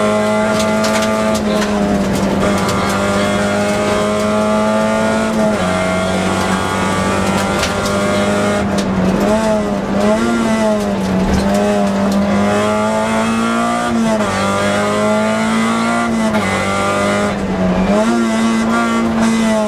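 Toyota Yaris rally car's engine heard from inside the cabin, driven hard at high revs; its pitch holds and wavers, then drops in steps several times as the car is lifted and shifted through the bends.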